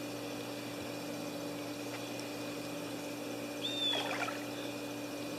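Steady background hum, with one brief high, slightly falling squeak about four seconds in.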